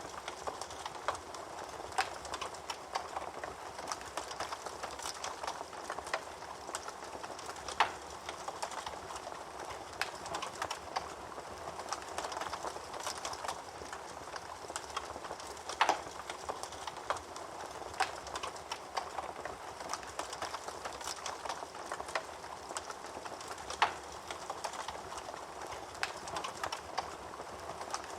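Wood fire burning in a fireplace: a steady hiss full of small crackles, with a louder pop about every eight seconds.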